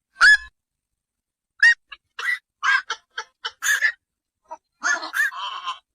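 Black-crowned night heron calling: a series of short calls at irregular intervals, with a longer drawn-out call near the end.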